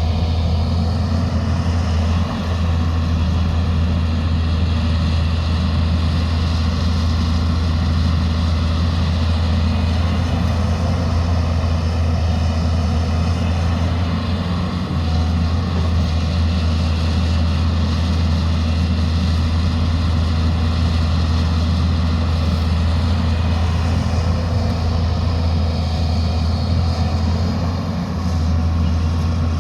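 Diesel engine of heavy earthmoving machinery, a backhoe loader or excavator, running steadily with a deep, even hum.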